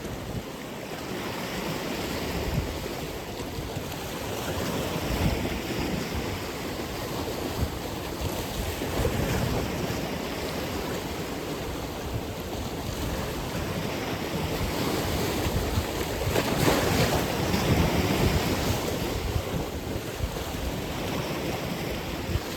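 Atlantic Ocean surf: waves breaking and washing ashore in slow swells, one of them louder about two-thirds of the way through, with wind buffeting the microphone in low rumbles.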